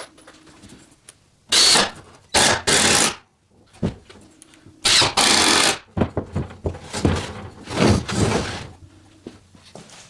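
A power tool run in five short bursts of about half a second to a second each, with clicks and knocks in the gaps between them.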